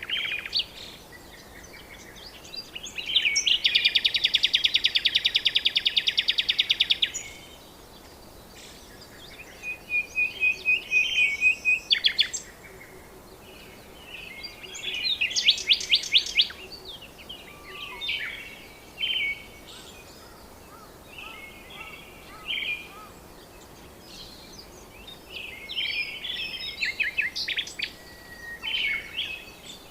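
Birds calling and singing: a run of high chirps and fast trills with short pauses between them, the loudest a long, rapid trill lasting about four seconds near the start.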